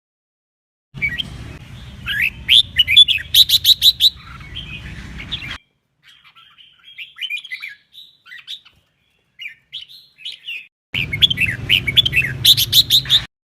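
Red-whiskered bulbul singing its competitive song: rapid loud phrases of sharp whistled and trilled notes, in two long bursts with softer, scattered notes between them. Each burst starts and stops abruptly, and a low hum runs under the loud parts.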